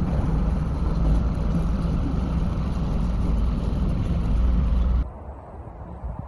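A heavy engine running with a steady low rumble that cuts off abruptly about five seconds in.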